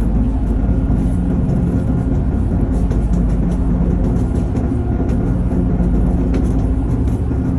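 Heavy engines droning steadily aboard a ro-ro ferry: a continuous loud low rumble with a steady hum.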